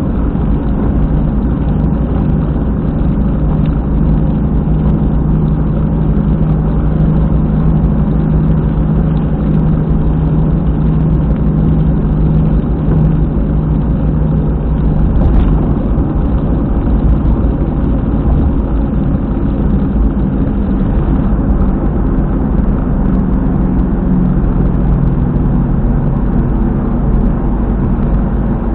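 Car running at expressway speed with a loud, steady rumbling drone from a rear wheel, the "boko boko boko" noise of an apparently failed rear hub bearing.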